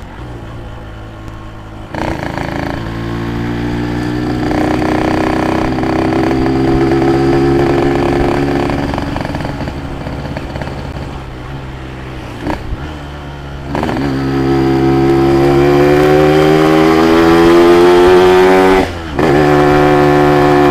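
Yamaha RX-King's two-stroke single-cylinder engine under way, pulling up through the revs. It lifts off and climbs again in the middle, then drops out for a moment near the end, as at a gear change, before picking up again.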